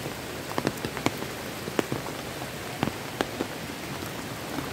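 Steady rain falling on a flooded rice paddy, an even hiss with scattered sharp taps of single drops close by.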